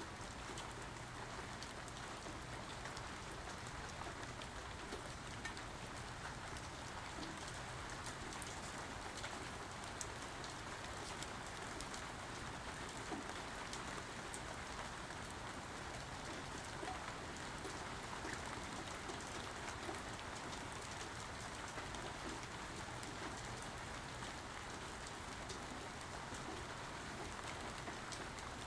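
Steady rain falling, an even patter of drops on surfaces, with no thunder standing out.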